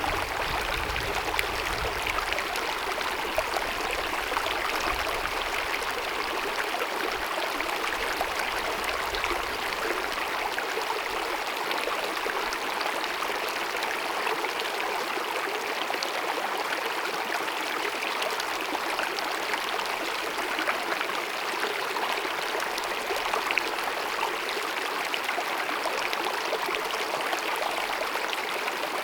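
Glacier-fed mountain meadow stream babbling and cascading over rocks: a steady rush of running water.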